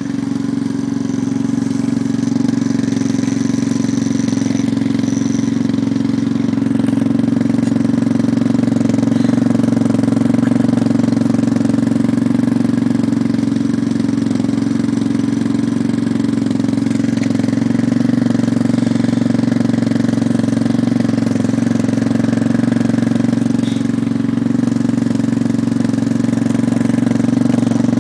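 Yamaha Raptor 250 ATV's single-cylinder four-stroke engine idling steadily, warming up after a jump-started cold start.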